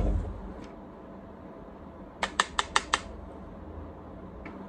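A quick run of five sharp clicks about two seconds in, with a fainter click near the end, over a low steady hum.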